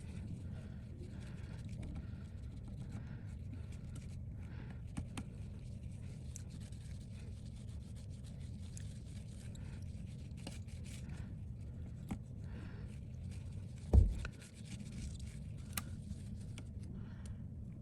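Faint rubbing and scraping of hand work on a phone display, over a steady low hum, with one dull knock about 14 seconds in.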